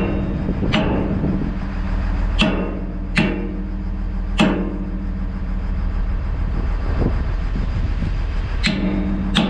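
Hammer blows ringing on the steel pin of a Caterpillar 325 excavator's hydraulic cylinder, driving the pin out: several sharp, irregular strikes. The excavator's diesel engine runs steadily underneath.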